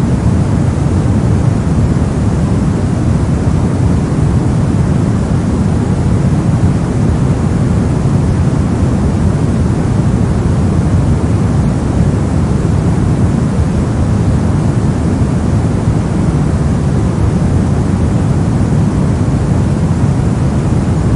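Brown noise: a steady, deep rushing hiss with most of its weight in the low end, unchanging throughout.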